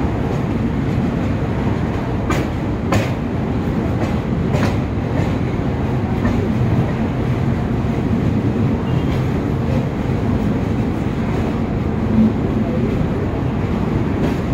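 Passenger train running over a steel truss bridge, heard from inside the coach by an open window: a steady, loud rumble of wheels and coach with a few sharp clacks in the first five seconds.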